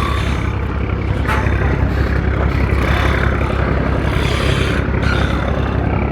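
A river boat's engine running with a steady, deep rumble, loud and unbroken throughout.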